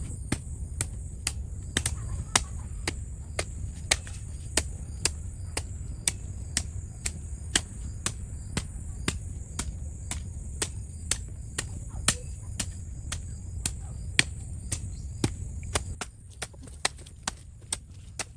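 Sharp, evenly spaced clicks or knocks, about two a second, over a low rumble that drops away near the end. A steady high hiss runs underneath.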